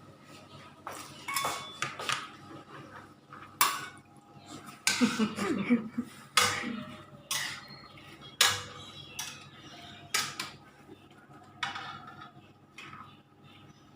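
Kitchen utensils and cookware clinking and knocking in irregular strikes, with a denser stretch of clatter about five seconds in.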